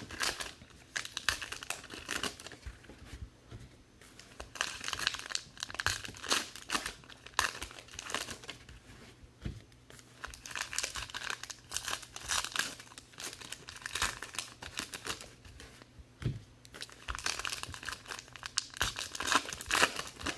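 Trading card pack wrappers being torn open and crinkled, in bouts of several seconds with short pauses between, as packs of 2019 Topps Allen & Ginger baseball cards are opened and handled.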